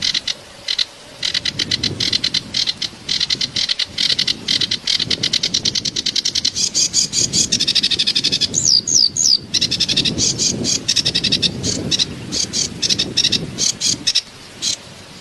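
Kerak basi reed warbler singing a fast, harsh, chattering song of rapidly repeated notes. About nine seconds in it breaks for three quick falling whistles, then goes back to chattering. Under it runs the steady rush of flowing water.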